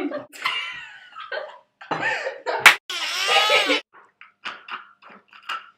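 Young people laughing and giggling, with a sharp click a little past halfway and a run of short breathy laughs near the end.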